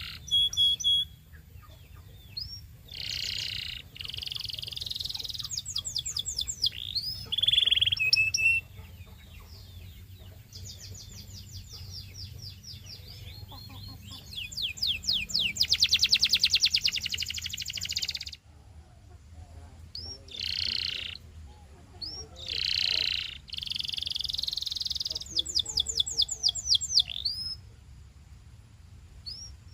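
Canary singing a long song: phrases of fast repeated chirping notes and quick rolls, with a few short upward-gliding whistles, broken by brief pauses.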